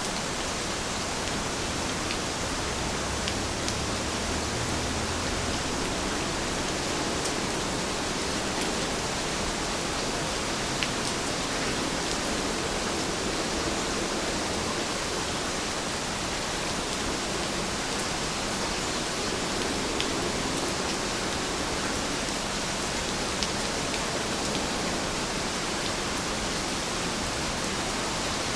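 Steady heavy rain, an even hiss of falling water with scattered sharp drop ticks.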